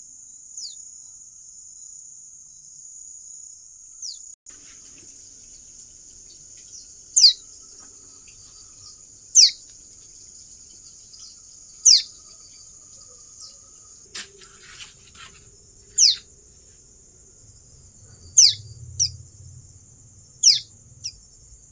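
A small bird repeating a sharp, quickly falling call, about every two to three seconds and more often near the end. Behind it runs a steady high-pitched insect drone.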